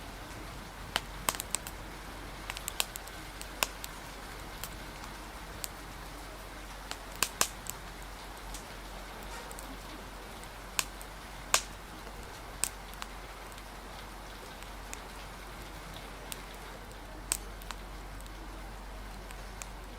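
Steady rain hiss with irregular sharp pops and snaps from a crackling wood fire, clustered near the start, around seven seconds and around eleven seconds, over a faint murmur of cafe conversation.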